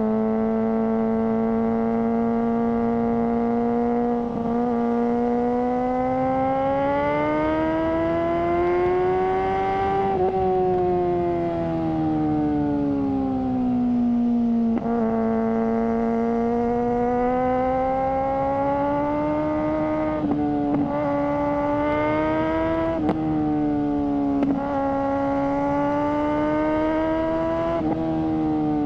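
Suzuki GSR600's inline-four engine through a GPR Ghost aftermarket exhaust, running under way at fairly high revs. Its high, even note slowly rises and falls in pitch, and dips briefly several times, as at throttle lifts or gear changes.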